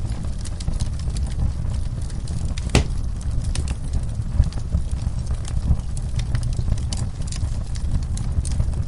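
Wood fire crackling in a fireplace: irregular sharp pops and snaps over a low steady rumble, with one louder pop about three seconds in.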